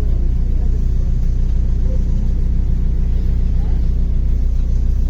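Steady low rumble of a MAZ-105 articulated city bus's diesel engine and running gear, heard from inside the passenger cabin while the bus drives between stops.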